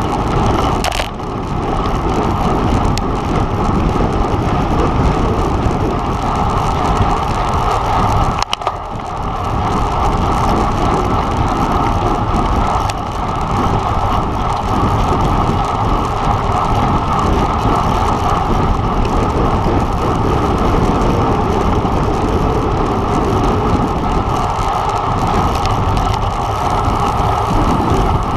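Steady loud rush of wind and road noise from a road bike riding at race speed, briefly easing about a second in and again about eight and a half seconds in.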